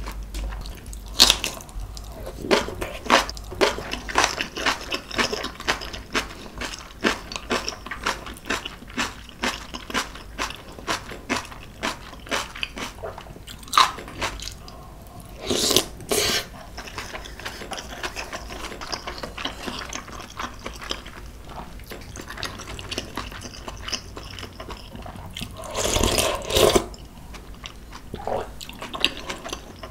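Close-miked eating sounds: crisp crunching and chewing of fresh napa cabbage kimchi, many quick crunches through the first half, then softer chewing of a dumpling. There are two louder, longer sounds, one about halfway through and one near the end.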